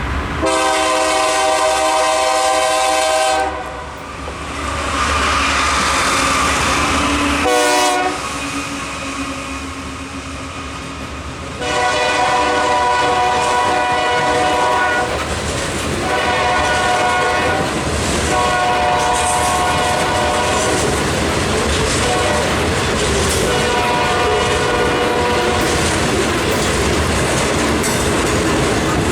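GE B40-8W diesel locomotive sounding its horn in a series of long and short blasts as it leads a loaded rock train past, over the steady rumble of the locomotive and cars rolling by.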